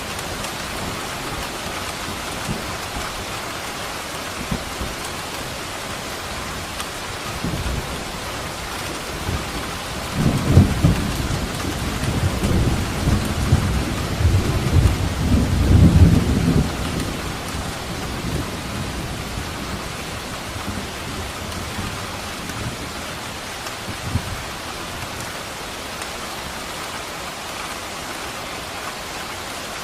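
Steady heavy rain with a rumble of thunder rolling through the middle, building from about ten seconds in to its loudest near sixteen seconds, then fading back to the rain.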